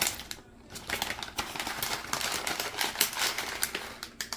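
Dry Szechuan peppercorns being shaken out of their container into a measuring spoon, making quick irregular clicks and rattles.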